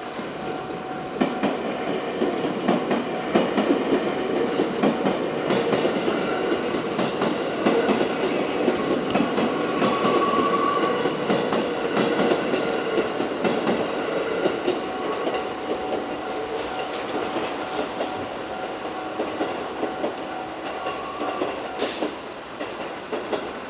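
JR West 221 series six-car electric multiple unit passing, its wheels clacking over the rail joints in a rapid, steady rhythm. It gets loud about a second in and slowly fades over the second half, with a sharp click near the end.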